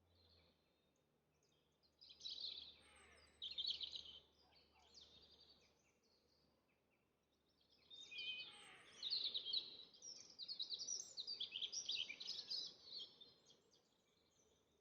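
A songbird singing outdoors in two bursts of rapid, high, chattering notes: a short phrase about two seconds in and a longer one from about eight seconds in, against faint background noise.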